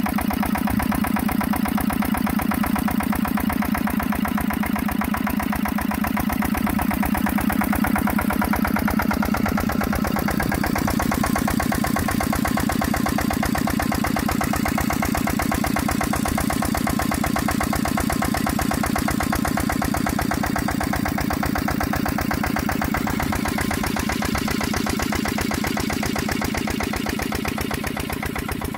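Kirloskar diesel farm engine running steadily at an even speed, its firing a fast, regular chugging.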